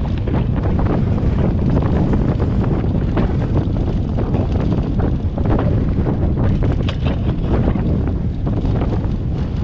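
Strong wind buffeting the microphone: a loud, steady low rumble with crackling gusts throughout.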